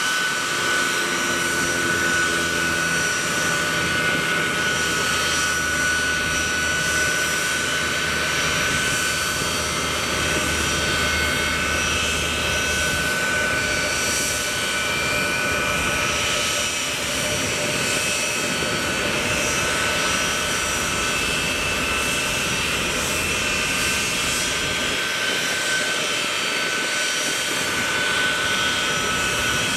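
Boeing C-17 Globemaster III's four Pratt & Whitney F117 turbofan engines running steadily on the ground: a high, steady whine over a continuous rush of jet noise.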